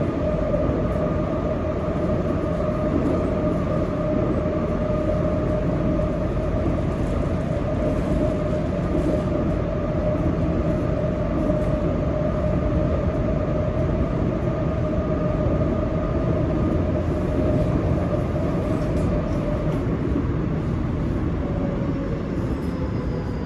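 Seoul Subway 7000-series train running at steady speed, heard from inside the car: a continuous rumble of wheels on rail under a steady whine, which eases slightly near the end.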